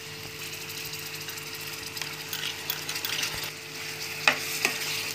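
Chicken and spice masala sizzling as it fries in oil in a pan, with stirring and scraping, after ginger-garlic paste and tomato purée have gone in. Two sharp knocks come near the end.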